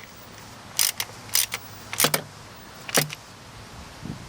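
Sharp metallic clicks and clinks from a hand socket wrench working the throttle body bolts, about six separate ones spread over a couple of seconds, with a steady low hum underneath.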